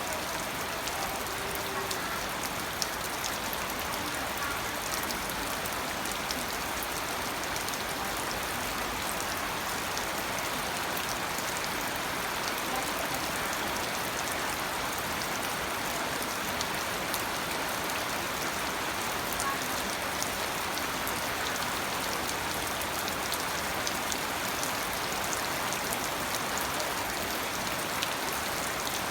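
Steady rain falling, a dense even patter of drops striking a surface.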